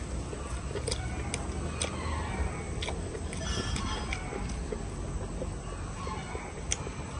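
A man chewing a mouthful of crispy roast pork belly, with sharp wet mouth clicks and smacks now and then. Chickens cluck in the background, most clearly about three and a half seconds in.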